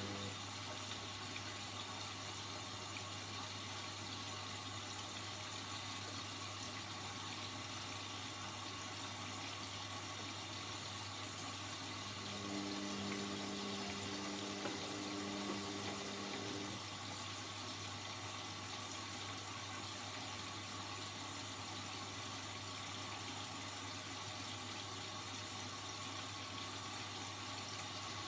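Indesit 71252 washing machine mid-cycle: a steady rush of water with a constant low hum. A pitched motor hum joins for about four seconds around the middle.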